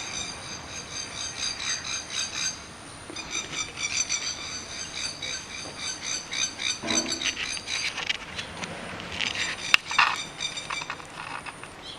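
Wildlife calling before dawn: rapid, rasping high-pitched chirps repeated in long runs, broken by short pauses about three seconds in and near the end, with a lower call about seven seconds in.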